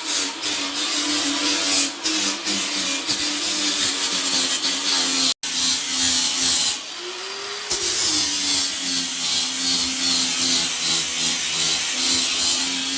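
Electric grinder running steadily as it grinds dried gypsum plaster off a ceiling between wooden rafters, with a steady whine. Its pitch rises briefly about seven seconds in, then settles back, and the sound breaks off for a split second a little over five seconds in.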